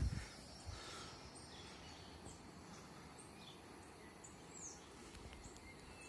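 Faint outdoor ambience: a steady low hiss with scattered short, high bird chirps every second or so.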